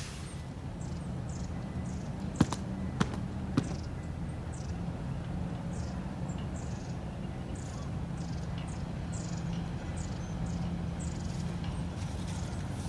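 Small birds calling with many short, high, downward-sweeping chirps, scattered irregularly over a steady low background noise. Three light knocks come between about two and a half and three and a half seconds in.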